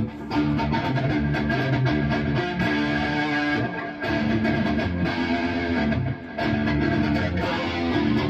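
High-gain electric guitar played through a Bogner Uberschall preamp, riffing in phrases with short breaks about every two to four seconds.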